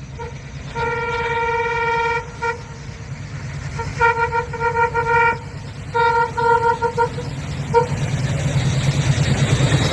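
Train horn sounding over a steady low rumble: one long blast about a second in, then short stuttering blasts in two bursts and a final short toot. Toward the end the noise of the train grows louder.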